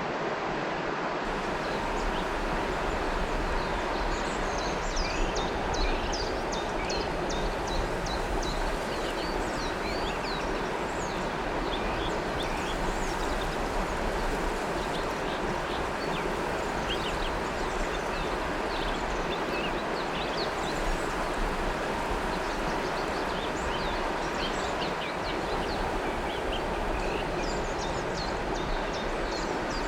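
Flowing river water, a steady rushing, with many short, high bird chirps over it.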